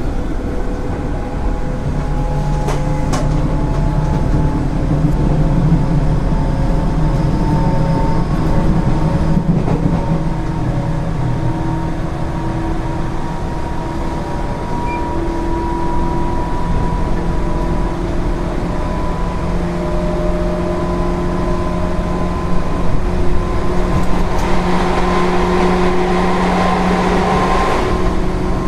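JR 205 series electric train running, with a steady hum and whine from its field-added-excitation-controlled traction motors and gears, drifting slowly up in pitch. Wheels tick over the rail now and then, and there are a few seconds of louder rushing noise near the end.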